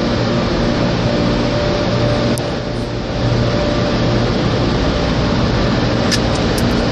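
Automatic car wash machinery running, heard from inside the car: a loud, steady rush over a low hum that dips briefly about halfway through, with a few sharp clicks near the end.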